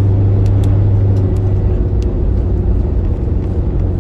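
Steady low drone of a moving road vehicle's engine and tyres, with a strong low hum that eases off about halfway through and a few faint high ticks.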